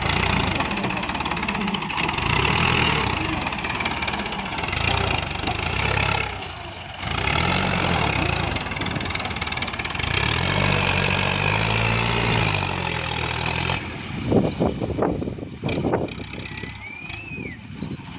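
Tractor engine running hard under load, its pitch rising and falling as it revs. A few sharp knocks come near the end, then a short whistle.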